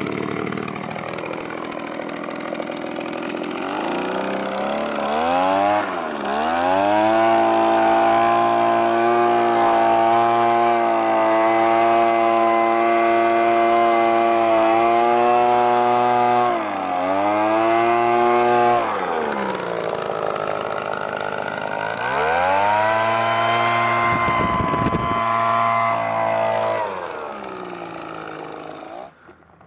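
Sadko BLV-260G petrol blower-vacuum's small two-stroke engine running just after starting. It is revved up from idle and held at high speed, let back down, and revved up again several times.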